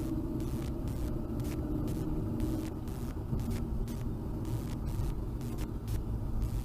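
Car engine and road rumble heard from inside a moving car's cabin, steady and low, with frequent short ticks scattered through it.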